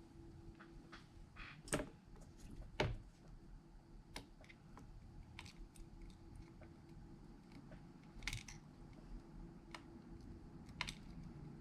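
Scattered small clicks and taps of hand tools working on a phone's parts, with louder ones about two and three seconds in, again near eight seconds and near the end, over a faint steady hum.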